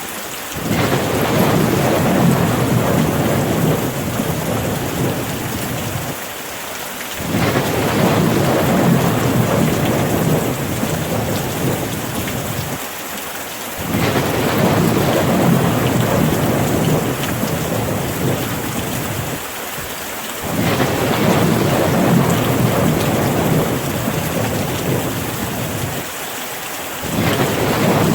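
Heavy, steady rain with a low rolling thunder rumble. The rumble swells and briefly drops away about every six and a half seconds, in an even, repeating cycle.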